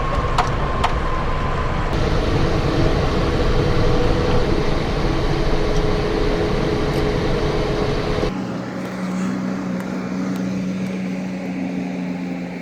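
Cockpit noise of a Cessna Citation XLS on its landing rollout with speed brakes out: a loud roar of air and runway with the twin Pratt & Whitney PW545 turbofans' steady whine. About eight seconds in it cuts off abruptly to a quieter steady hum with a low drone.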